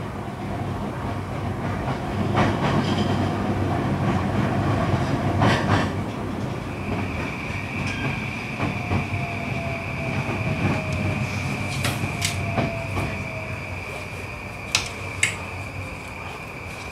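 JR East E235 series train running slowly into a station, heard from inside the car: wheels rumble and click over rail joints and points. A steady high wheel squeal joins about a third of the way in, and a faint whine falls slowly in pitch as the train slows to a stop.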